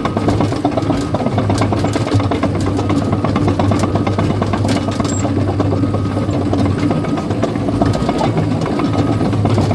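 Caterpillar bulldozer's diesel engine running steadily, with a dense rapid clatter over it.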